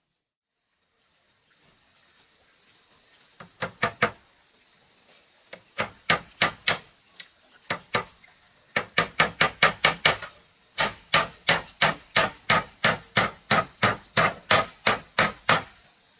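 Hammer striking wood, first in short scattered groups, then a quick run of blows and a long steady series of about three strikes a second that stops just before the end. Crickets shrill steadily throughout.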